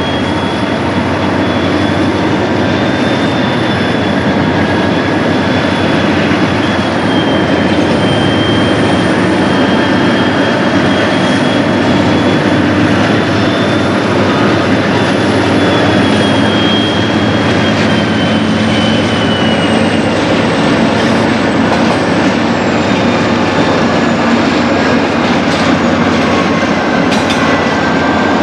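Freight train rolling slowly during yard switching: wheels clacking over rail joints under a steady, high wheel squeal that wavers in pitch and fades about two-thirds of the way through.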